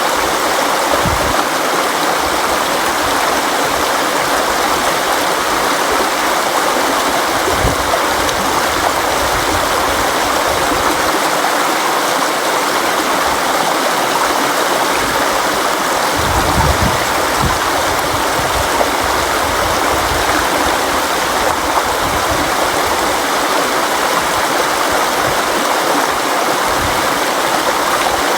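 River water flowing steadily, a constant rushing with occasional deeper surges.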